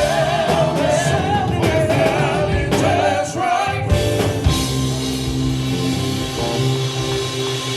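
Live gospel quartet band playing, with a wavering sung line over the instruments for about the first four seconds, after which the band carries on with held chords and bass.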